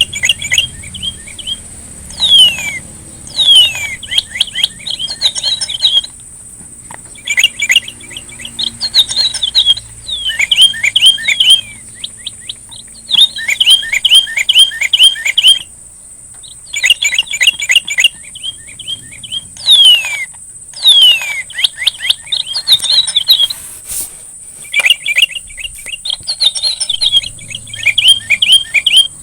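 A songbird known locally as the sri rejeki singing in phrases of quick, rapidly repeated chirps, mixed with falling whistled notes, with short pauses between phrases. A thin, steady high tone runs underneath.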